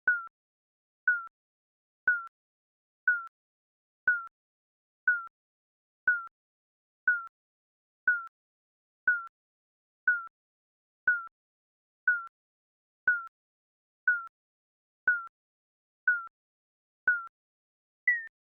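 Digital countdown timer beeping once a second, each beep a short electronic blip with a slight downward slide in pitch. Near the end the beep steps up to a higher pitch.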